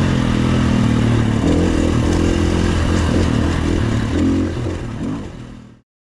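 Dirt bike engine running at low speed with small throttle changes, fading out and cutting to silence near the end.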